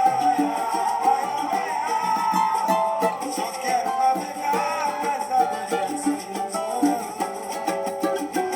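Samba-pagode music: a cavaquinho strumming with steady, rhythmic percussion.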